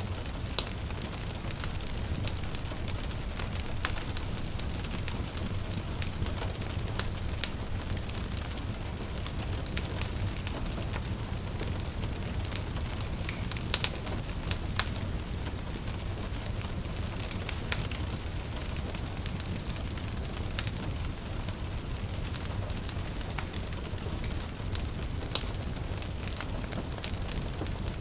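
Wood fire crackling in a fireplace: irregular sharp pops and snaps over a steady low rumble and hiss, with a few louder pops. Gentle rain may be mixed in under it.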